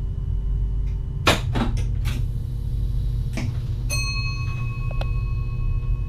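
Inside the cab of a VIRM double-deck electric train running along the line, with a steady low rumble. A few sharp knocks come about one to three seconds in. About four seconds in, a bell-like tone starts and keeps ringing.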